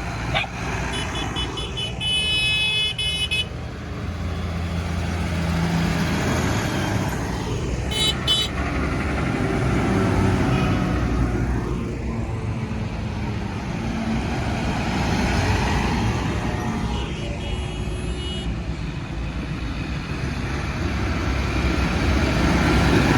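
Tractor engines running steadily, with short horn toots about two seconds in, again around eight seconds and again around seventeen seconds.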